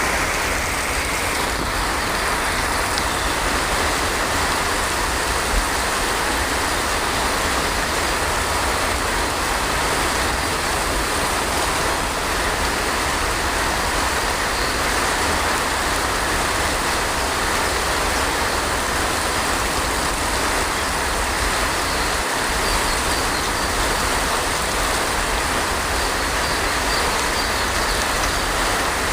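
Heavy rain falling steadily, an even hiss with no thunder heard.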